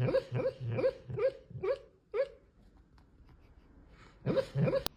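A dog giving a quick run of short, rising barks, about two a second, then a pause and two more barks near the end.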